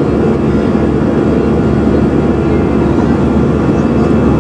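Steady engine and airflow noise heard inside the passenger cabin of an Airbus A320, a low even drone with several steady tones running through it.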